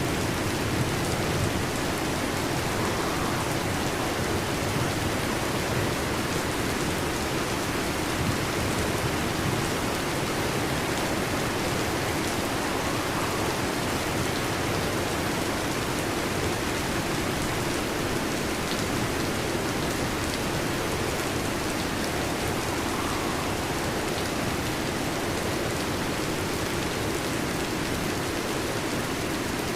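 Steady heavy rain falling in an even, unbroken hiss, with no thunder standing out.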